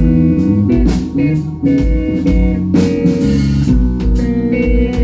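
A live rock band playing an instrumental passage between sung lines: electric guitars over bass and a drum kit keeping a steady beat.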